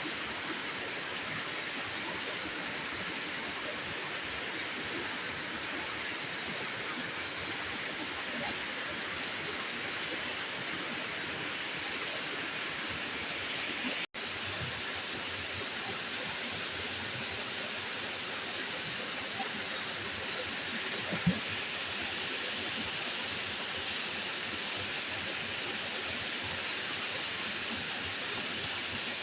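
Heavy rain falling as a steady, even hiss. It cuts out for an instant about halfway through, and there is a single sharp knock about two-thirds of the way in.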